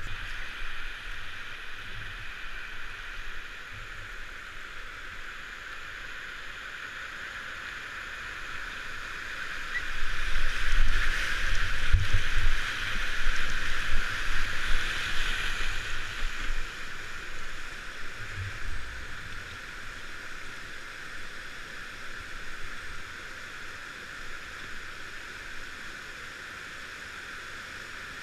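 River water rushing and gurgling in a steady hiss around a kayak. It gets louder, with low thuds, from about ten to sixteen seconds in.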